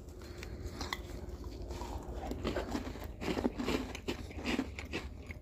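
Crunchy biscuits being bitten and chewed close to the microphone: irregular crisp crunches and small crackles.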